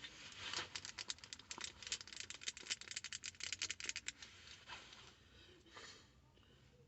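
Close-up ASMR tapping: a fast run of sharp clicks, about ten a second, for roughly four seconds, then a few scattered taps that die away.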